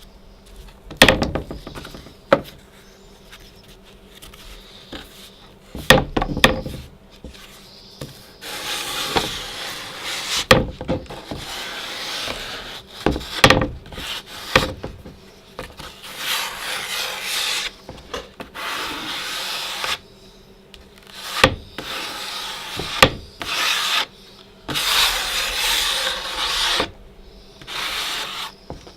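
Drywall knife scraping joint compound across a sheetrock patch and the wall in repeated strokes of one to three seconds, with sharp knocks in between.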